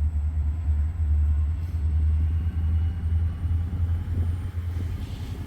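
Steady low rumble of an idling engine, with nothing else standing out.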